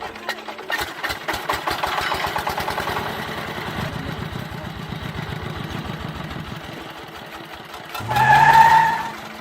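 A small engine starts and runs with a rapid, even putter that slowly fades. Near the end a brief, louder tonal sound with a rising pitch cuts in.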